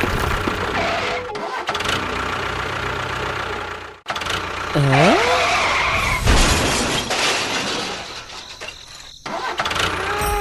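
Small engine of a homemade mini tractor running, the sound broken by abrupt cuts, with a short swooping pitched sound about five seconds in.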